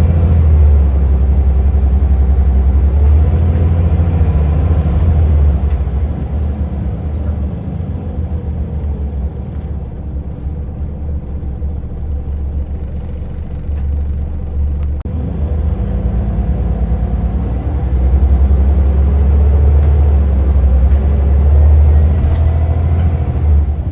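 Diesel engine of a Scania L94UA Wright Solar Fusion articulated bus running, loud at first, easing off about six seconds in, then building up again around sixteen seconds.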